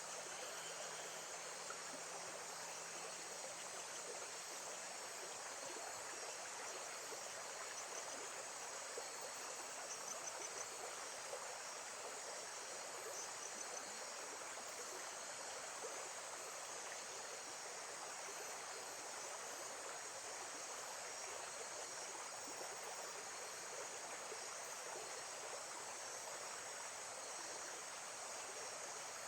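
Steady flowing water, like a small stream trickling, with faint high chirps now and then.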